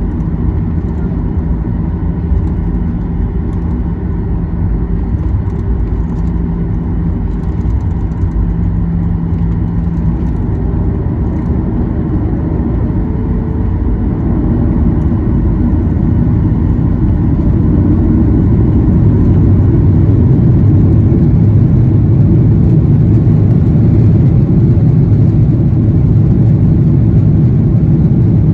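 Boeing 737-800's CFM56-7B jet engines at takeoff power on the takeoff roll, heard from inside the cabin as a loud low rumble with a steady engine tone early on. The rumble grows louder about halfway through and stays loud.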